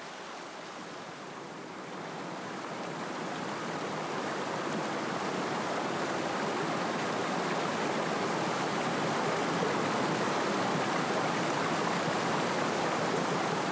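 Fast-flowing river water rushing over stones. It is a steady rush that swells over the first few seconds and then holds.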